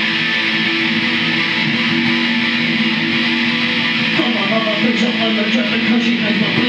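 Guitar strumming chords steadily as a dense, sustained wall of sound, with no drums.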